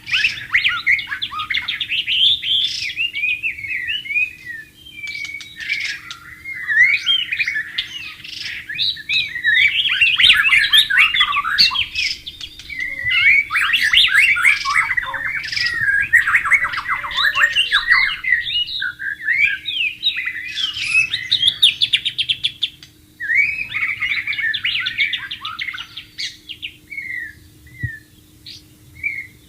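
White-rumped shama singing: long, rapid, richly varied phrases of whistles, trills and chattering notes with short pauses between them, thinning to a few scattered notes near the end.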